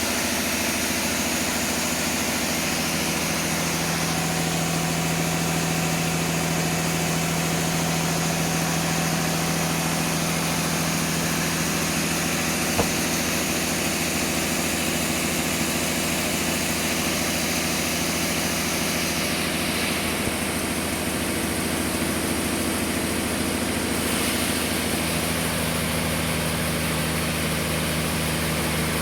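Sawmill machinery running steadily, with one sharp click about halfway through.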